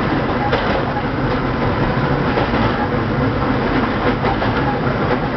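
Fuji Kyuko Railway electric train running along the line, heard from inside the driver's cab: a steady rumble of wheels on rail with a few sharp clicks as the wheels pass rail joints.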